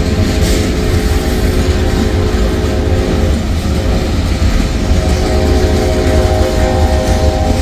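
Freight train cars rolling past close by: a steady, loud rumble of steel wheels on the rails. A few steady singing tones ride on top, fading about halfway through and coming back.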